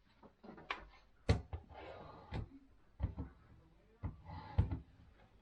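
A series of irregular knocks and clicks with brief rustling in between: objects being handled and set down.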